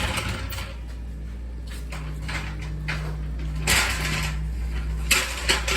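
Air-cooled VW engine idling with a steady low hum, and a few short mechanical clicks and knocks, one near the middle and a couple near the end.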